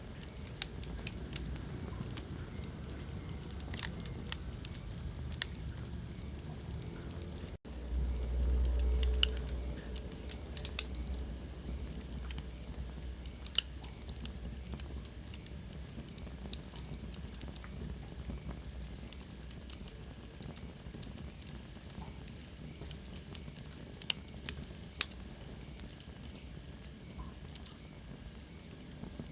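Wood fire crackling in a fireplace: scattered sharp pops over a steady low rumble. About seven and a half seconds in the sound briefly drops out, then the low rumble comes back stronger for a couple of seconds. Near the end a faint high whistle slides down in pitch.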